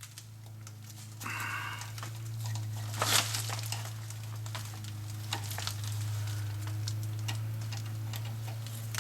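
Scattered clicks and small rattles of a parking brake cable and its clips being handled and fitted, over a steady low hum; the loudest is a brief clatter about three seconds in.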